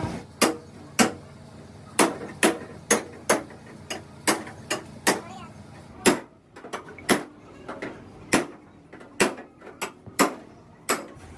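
Hammer blows: a run of about twenty sharp, irregular strikes, roughly two a second with a few short pauses.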